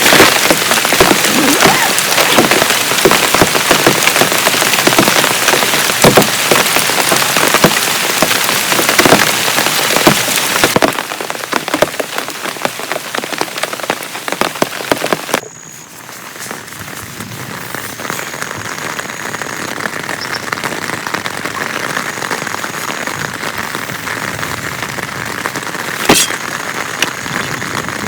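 Heavy rain pattering hard with many sharp drop hits. It eases about ten seconds in, drops off abruptly about halfway, then goes on as a lighter, steady rain with one sharp knock near the end.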